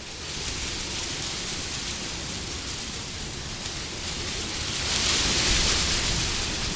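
Steady wind noise, rising to a stronger gust about five seconds in and easing again near the end.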